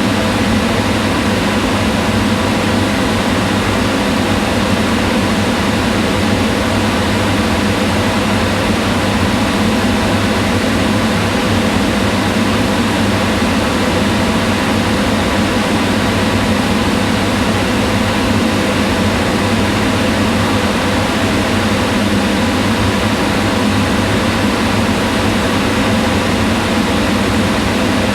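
Kitchen range hood fan running steadily, a loud even whirring hum with a low drone underneath.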